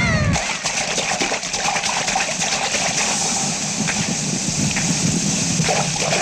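Steady rain falling, an even hiss with scattered small drops pattering; a song's music cuts off about half a second in.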